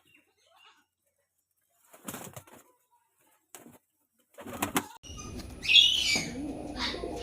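Pigeons flapping their wings in a few short bursts, then a loud high call and low cooing over a steady background noise in the last two seconds.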